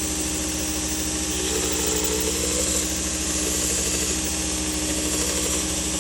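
1x30 belt grinder running slowly, a steady motor hum with belt hiss, while a knife blade is sharpened on the slack part of a 400-grit Trizact belt.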